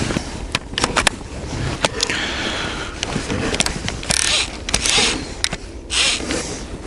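Crunching and scraping on snow and ice, in separate noisy bursts roughly a second apart, with a few sharp clicks between them.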